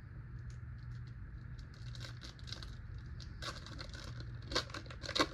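Trading-card pack wrapper crinkling and tearing as it is handled and opened, in a run of short crackly rustles that grow denser and louder over the last couple of seconds, over a low steady hum.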